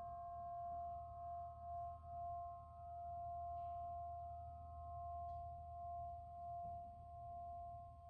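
Crystal merkaba's quartz bars ringing together: several steady, pure tones of different pitch held at once with a slow wavering swell.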